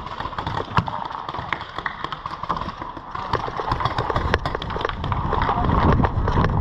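Paintball markers firing around the field: irregular sharp pops, some close and loud, over a low rumble that grows louder in the second half.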